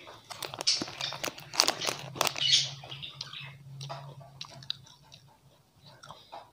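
Close-up crunching and chewing of a wafer chocolate bar: dense crisp crunches for the first few seconds, thinning to softer, scattered chews toward the end.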